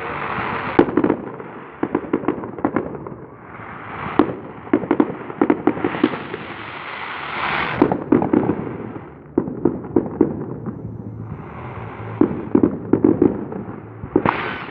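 Fireworks show going off: repeated clusters of rapid crackling pops, about seven in all, each led by a rushing hiss.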